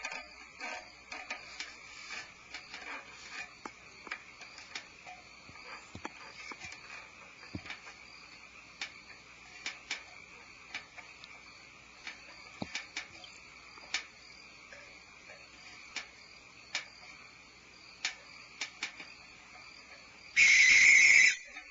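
Crickets chirring steadily through the night, with faint scattered clicks and scrapes. About twenty seconds in, a barn owl gives a harsh screech of about a second, much louder than the crickets.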